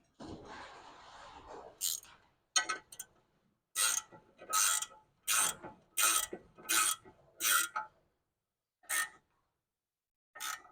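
A hand ratchet wrench being worked in a run of short clicking strokes, about one stroke every 0.7 seconds, with a few more strokes near the end. The first two seconds hold a rougher rustling sound before the ratcheting starts.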